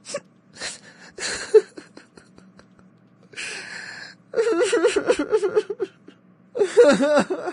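A person crying and sobbing: a few short gasping breaths, then a wavering, wailing cry that comes twice.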